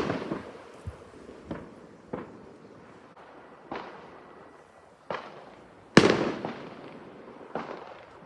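Fireworks exploding: a string of separate bangs, about seven in eight seconds, each followed by a fading echo. The loudest bang comes about six seconds in.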